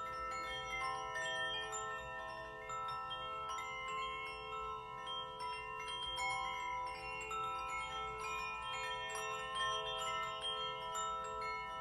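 Ringing metal chimes, many notes struck in quick succession and left to ring so that they overlap, over a steady low rush of a stream.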